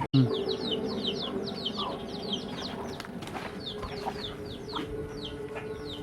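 Chickens calling, a run of many short, high, falling peeps coming several a second, with a few lower clucks among them.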